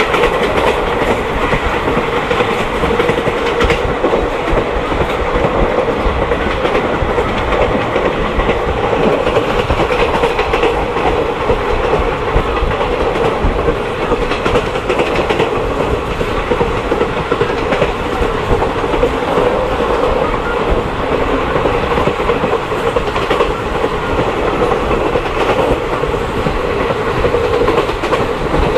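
Passenger train running steadily along the track, with a continuous rumble and the clickety-clack of wheels over rail joints.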